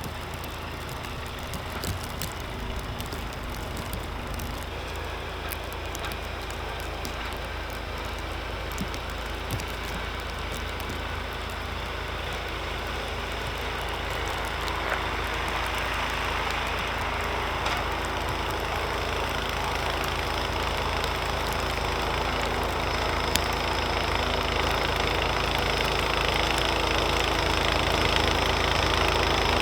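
Snowblower's small engine running steadily, growing gradually louder.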